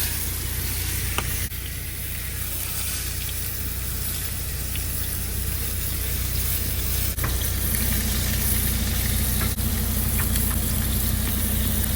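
A steak sizzling in a small frying pan: a steady hiss of frying fat with a few faint pops. A constant low hum runs underneath, and a steady low drone joins about eight seconds in.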